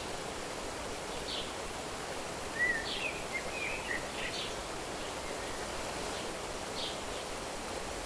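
Steady rushing of flowing water, like a stream, with small birds calling over it: short high chirps every second or so, several close together around three to four seconds in.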